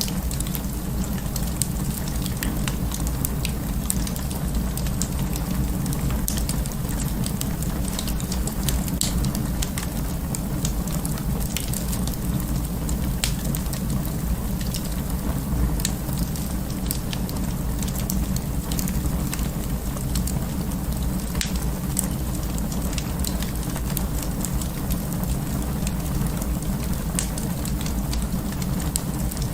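Wood fire in an open fireplace crackling, with a steady low rumble of flames and frequent sharp, irregular pops and snaps.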